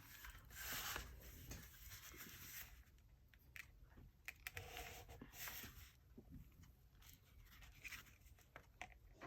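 Faint, intermittent rustling and scraping of paper being handled on a desk, a few brief bursts spread across the quiet.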